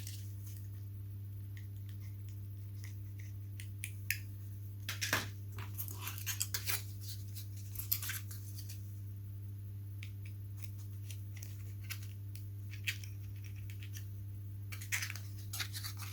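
Small scattered clicks and scratches of hands sorting and handling light foam and plastic model parts, over a steady low hum.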